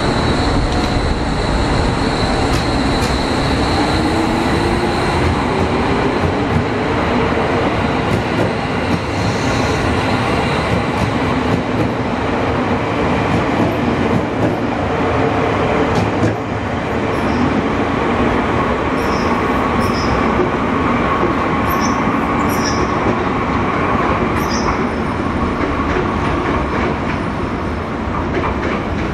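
JR Kyushu 783 series electric train pulling away, its motor tone rising in pitch as it accelerates over the first several seconds, over a continuous rumble of wheels on rail as the cars pass. A steady higher whine runs through the later part.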